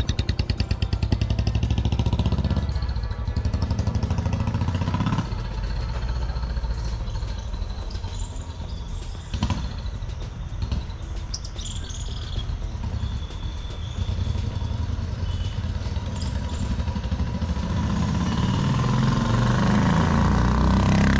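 Royal Enfield Bullet 350's single-cylinder engine running at idle with an even thumping beat, with a thin whistle from a turbo whistle fitted to its exhaust pipe. Over the last few seconds the engine is revved and rises in pitch and loudness.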